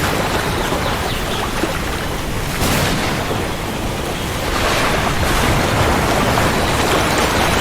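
Heavy rain falling steadily under a low rumble of thunder, swelling louder about two and a half seconds in and again around five seconds.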